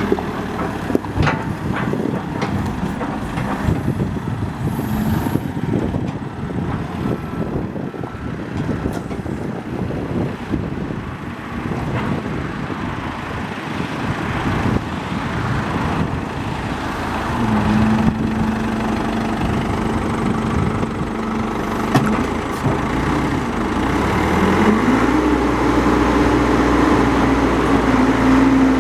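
Cat 426C IT backhoe loader's turbocharged diesel engine running while the machine is worked, with scattered knocks and clanks in the first half. About two-thirds of the way in a steady engine note appears, and near the end it rises to a higher steady pitch as the engine revs up.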